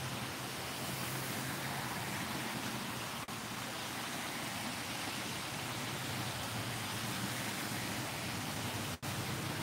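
Steady hiss of heavy rain falling on a wet street, with a low hum underneath. The sound drops out for an instant about three seconds in and again near the end.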